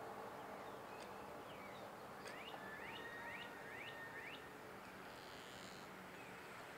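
Faint night ambience with a steady low hum, and a bird chirping a short run of five quick rising notes about two seconds in.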